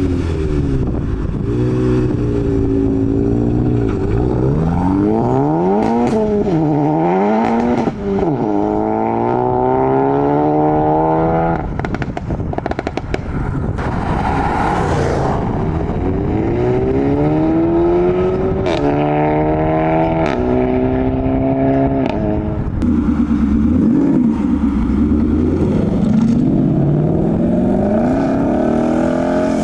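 Modified cars accelerating away, one after another, engines revving up through the gears. Each rising note drops back at a gear change, and there are a few sharp cracks about halfway through.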